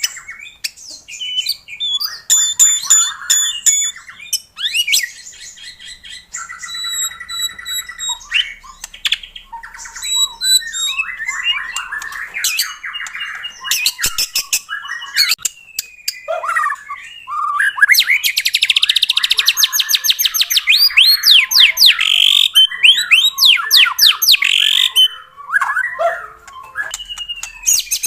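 White-rumped shama (murai batu) singing a loud, varied song of clear whistles, sliding notes, trills and harsh chattering phrases, with a dense run of fast repeated notes about two-thirds of the way through.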